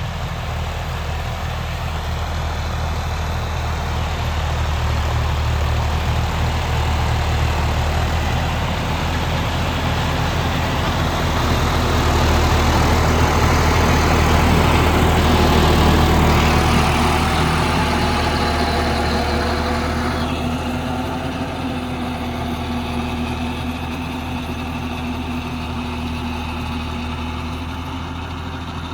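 Diesel engine of a John Deere 5310 tractor running steadily, growing louder through the middle with a rushing noise that eases off after about twenty seconds.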